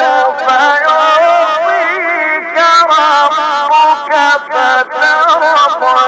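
A male Quran reciter's voice in long, ornamented held notes of melodic tajweed recitation, with heavy echo on the sound. He sings several drawn-out phrases with only brief breaths between them.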